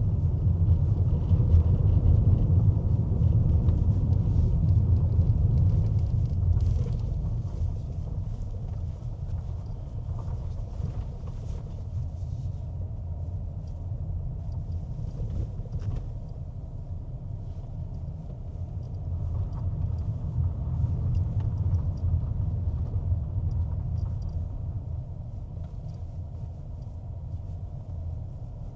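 Car driving: a steady low rumble of engine and road noise, strongest in the first few seconds, easing off, then swelling again about twenty seconds in.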